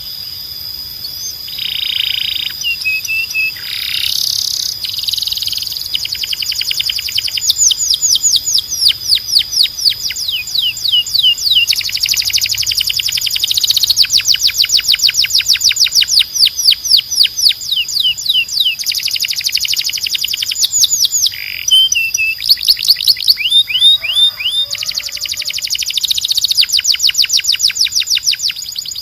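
Domestic canary singing a long song of fast rolls, each made of many short, high, down-sweeping notes repeated in quick succession. The pattern changes every few seconds with brief breaks, over a steady high tone.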